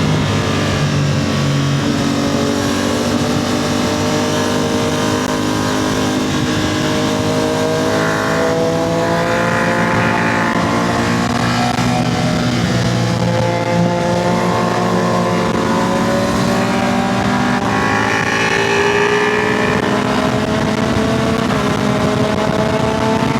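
Motorcycle engine running hard on the road, its pitch climbing slowly several times as it accelerates and then dropping back, over a steady rush of noise.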